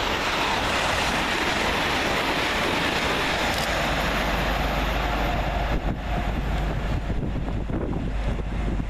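Two coupled Class 802 trains passing through at speed on the fast line, a loud rush of wheel and air noise that begins to fade about five and a half seconds in. Wind buffets the microphone as the sound dies away.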